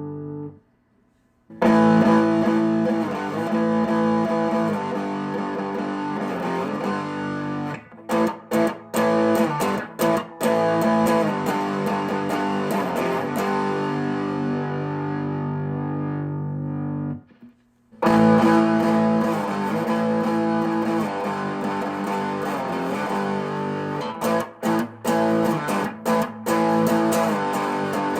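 Gretsch electric guitar played on its bridge pickup: strummed chords left to ring, broken by quick choppy strums about a third of the way in and again near the end, with two brief pauses.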